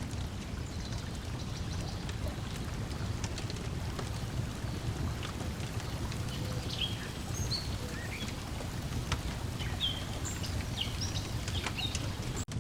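Lakeside ambience: a steady low wash of lapping water under a wood fire crackling with scattered sharp pops. Small birds chirp in short high notes, mostly in the second half.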